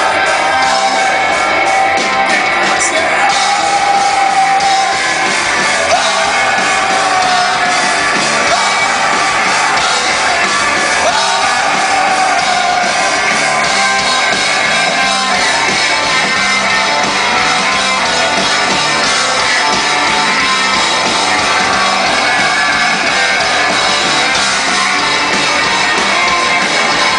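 Live rock band playing loudly, with voices singing and shouting over the music, in a large hall.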